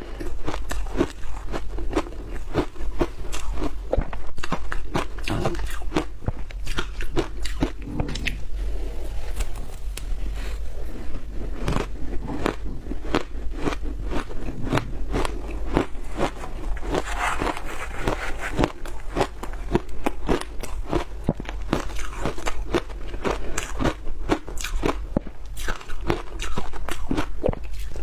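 Close-miked biting and chewing of hard frozen food, a dense run of irregular crunches and crackles throughout, over a steady low hum.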